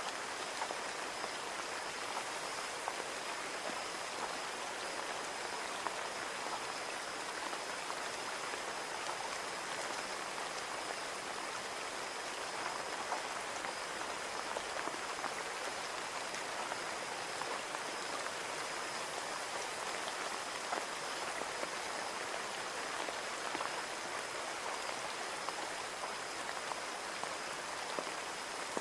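Steady rain pattering on window glass, with scattered individual drop ticks over an even hiss. A faint high steady tone runs underneath.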